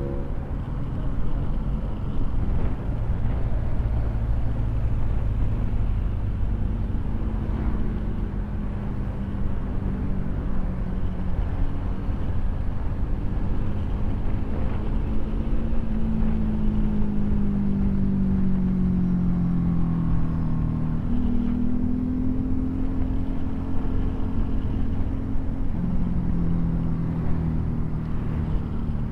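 Motorcycle engine running under way, its pitch falling slowly and then jumping up again as speed and gears change, over a heavy wind rumble on the microphone.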